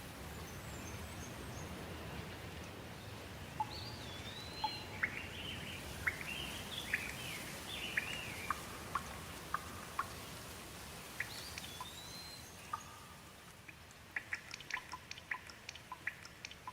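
Steady rain with a bird calling over it: slurred whistles and a run of chirps in the middle, another whistle a little later, then a quick series of short sharp ticks near the end as the rain grows a little quieter.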